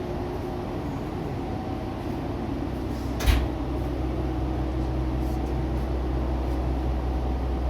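Diesel railcar engine running with a steady low drone, a sharp knock about three seconds in, after which the drone is a little louder.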